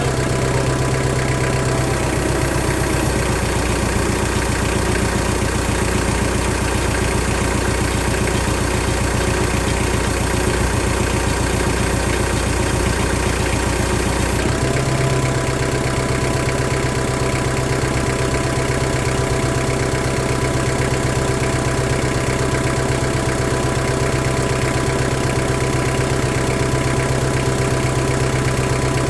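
An engine running steadily, its low tone shifting about two seconds in and returning about halfway through.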